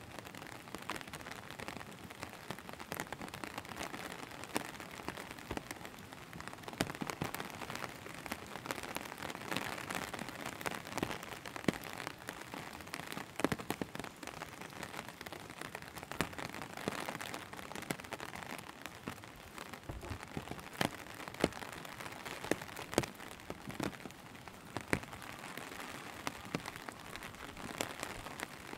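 Steady rain falling on a road and surrounding foliage, an even hiss with frequent close drops tapping irregularly.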